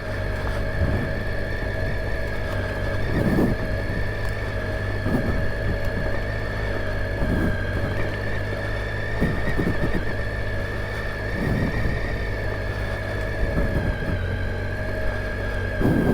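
Triumph Tiger 800 XCa's three-cylinder engine running at a steady speed under way, with a constant high whine over the engine note and brief knocks every second or two. The bike is being nursed along on an overheated, slipping clutch taken up to its last adjustment.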